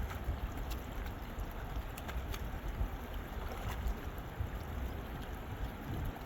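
Low, uneven rumble of wind on the microphone, with a few faint scattered clicks.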